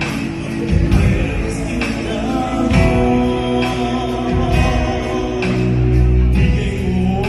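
Gospel music: several voices singing together over instrumental accompaniment with a beat.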